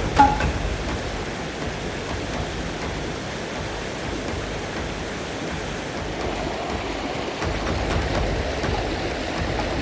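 Mountain stream water rushing steadily, with one short sharp sound just at the start.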